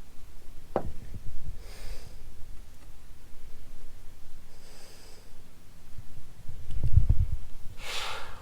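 A person breathing close to the microphone: three soft breaths about three seconds apart, with a small click early and a low rumble of handling or movement just before the last breath.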